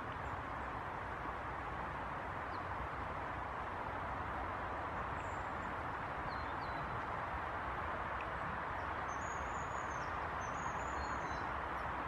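Faint, thin, high calls of small birds over a steady background rush: a few scattered single notes, then a short cluster of high chirps near the end.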